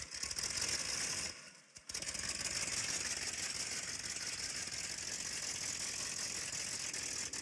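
Hot rod engine running, dropping away briefly about a second and a half in, then running steadily again.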